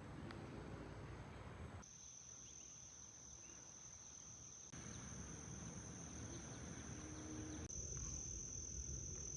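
Faint, steady high-pitched trilling of insects in a cypress swamp, over a low background hiss. The sound shifts abruptly in level about two, five and eight seconds in, and is loudest after the last change.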